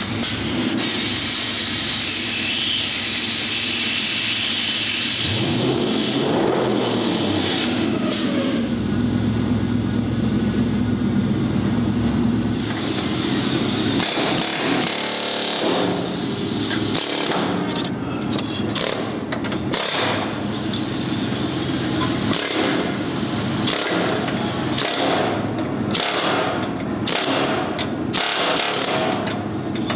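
Power-tool and hand-tool work on a vehicle: a steady mechanical running noise through the first half. In the second half, many short, sharp bursts follow one another in quick succession.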